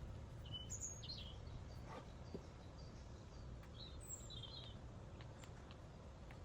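Quiet outdoor background rumble with a few short bird chirps, about a second in and again around four seconds in.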